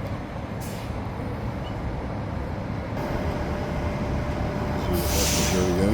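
Steady low rumble of a SkyTrain light-metro train running by, growing louder in the second half, with a steady tone joining about halfway through and a brief hiss near the end.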